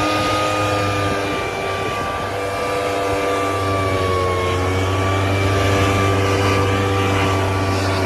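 A motor or engine that has just sped up runs steadily at a high, even pitch, wavering slightly, over a low steady hum.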